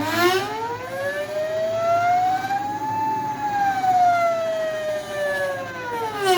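Hoverboard hub motor whining as an Arduino fade program ramps its speed through PWM: the pitch rises to a peak about three seconds in, then falls, dropping steeply near the end as the motor slows.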